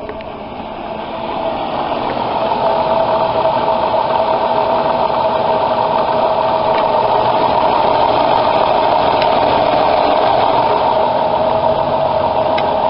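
Chrysler minivan engine running in drive, with a steady whine that swells over the first two seconds and then holds at one pitch. It is the alternator noise from the van's seized alternator decoupler pulley.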